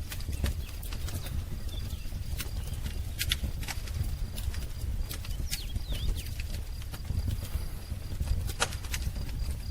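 Wood fire crackling: irregular sharp pops and snaps over a low, steady rumble of the burning fire, with a few faint bird chirps.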